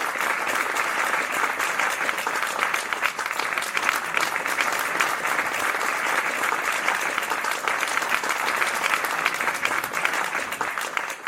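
Audience applauding at the end of a song, a dense, steady clapping that fades out near the end.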